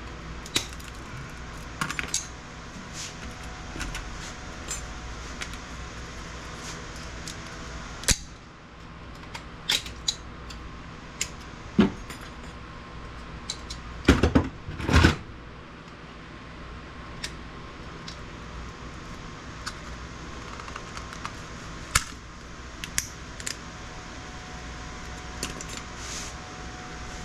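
Hand tools working components and steel off a circuit board: scattered clicks, clinks and snaps of metal on board, with a louder cluster of knocks about halfway through, over a steady background hum.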